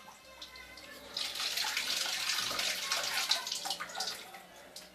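Water splashing: a noisy rush full of small clicks that starts about a second in and fades out about four seconds in.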